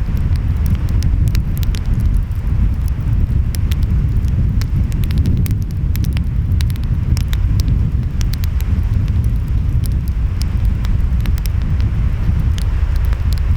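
Wood fire crackling, with frequent sharp pops and snaps, over a steady low rumble of ocean waves and wind.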